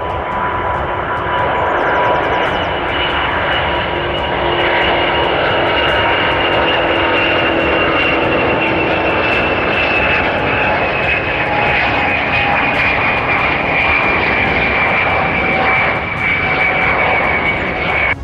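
Airbus A350 jet engines at takeoff power during a simulated one-engine-failure takeoff: a loud, steady rush with a high whine that slowly falls in pitch. It cuts off suddenly at the end.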